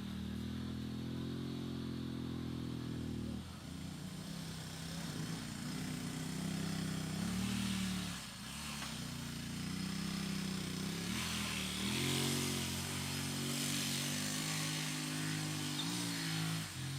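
An engine running, its speed dropping and picking up again several times.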